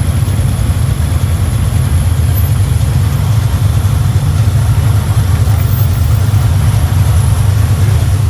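Hot rod's engine and road noise heard from inside the cabin while driving: a loud, steady low rumble.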